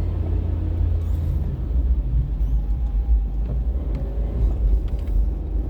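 Steady low rumble inside a car's cabin as it drives slowly over snow-covered streets: engine and tyre noise.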